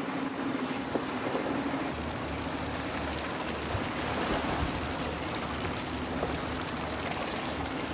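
Boat engine running steadily under a constant rush of water and wind.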